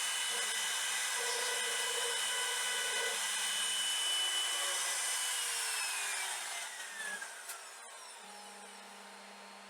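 Woodworking power tool's high-speed motor running with a steady high whine, then switched off about five and a half seconds in, its pitch falling as it spins down to a stop.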